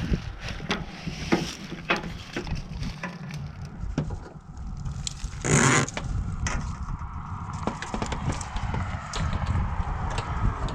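Scattered clicks and light knocks over a steady low rumble, with one short loud hiss about five and a half seconds in.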